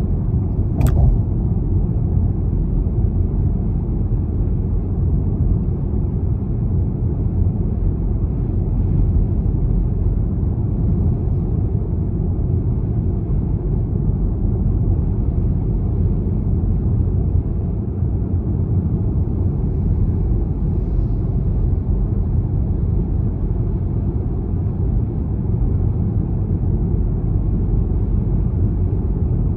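BMW 320d xDrive with a four-cylinder diesel, driving at a steady pace: an even low rumble of engine and road noise. There is one short click about a second in.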